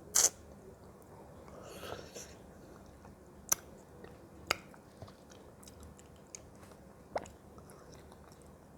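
Someone eating fruit close to the microphone: a loud sharp bite right at the start, then quieter chewing with three short sharp clicks spread through.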